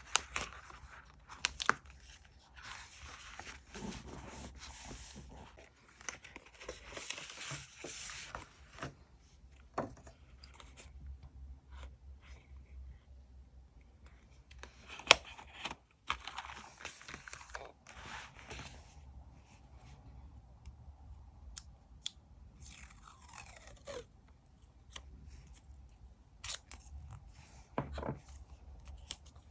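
Paper and stationery being handled at a desk: repeated stretches of paper rustling and crinkling, broken by sharp taps and clicks and a short scraping sweep.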